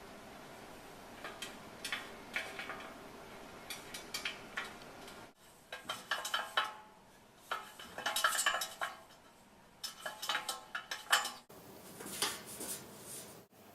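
Hard objects clinking and clattering in irregular bursts of quick knocks and rattles, with abrupt breaks between the bursts.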